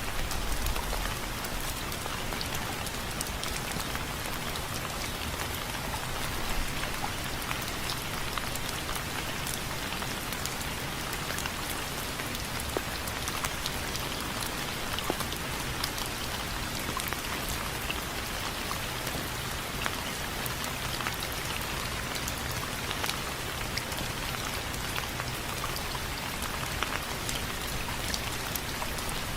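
Steady rain falling on window frames: an even hiss dotted with many sharp ticks of single drops striking.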